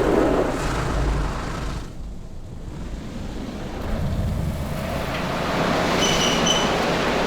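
Automatic car wash equipment running, a steady noisy rush that thins out for about a second about two seconds in, then builds back up.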